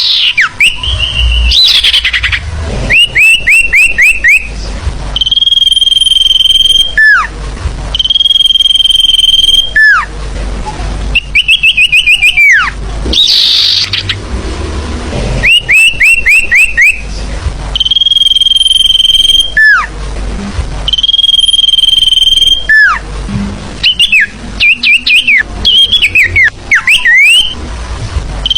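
Recorded bird-lure call: a bird repeatedly gives a long, steady high whistle that drops sharply at the end, alternating with quick runs of four to six short rising chirps.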